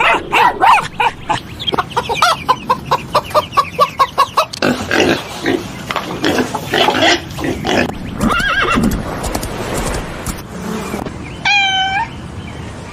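Several animal calls one after another: a fast run of short pitched calls at about five a second, then rougher, noisier calls, and a single cat meow near the end.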